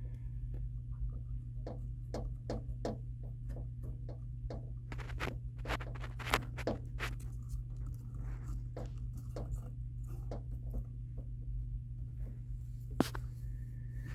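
Irregular scratching, scraping and clicking of hand cleaning on the dirty back of an HVAC indoor blower motor, over a steady low hum.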